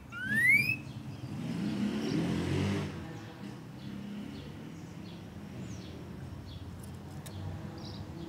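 Green-winged saltator giving one loud, rising whistled note in the first second. A passing vehicle's rumble then swells and fades over the next two seconds, and faint short chirps sound over a low steady background rumble.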